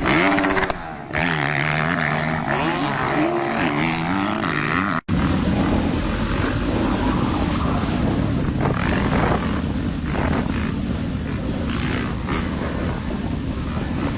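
Motocross dirt bike engines revving, the pitch climbing and dropping with the throttle; after a sudden break about five seconds in, a denser, steadier engine din.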